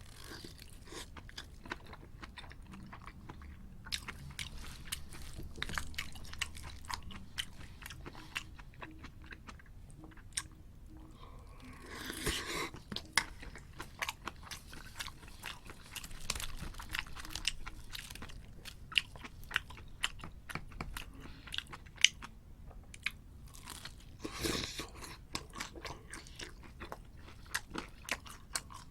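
Close-miked mouth sounds of eating: crunching and chewing food, with many small crisp clicks. There are two louder crunches, about twelve seconds in and again near twenty-five seconds.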